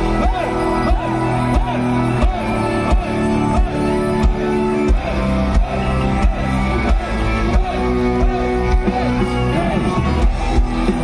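Folk-metal band music: drums keeping a steady beat under bass and melodic lines, with no break.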